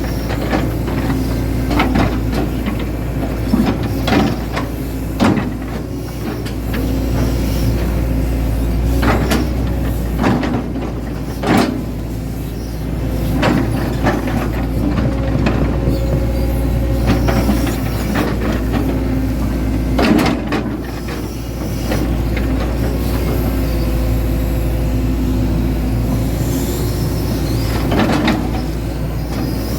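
Hitachi Zaxis 110 excavator's diesel engine running steadily under working load, with repeated knocks and clanks from the machine as it digs.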